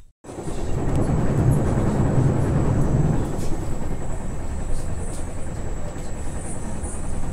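Passenger train running, heard from inside the carriage: a steady rumble and rush of wheels on the track that starts abruptly just after a short gap and is heaviest in the first few seconds.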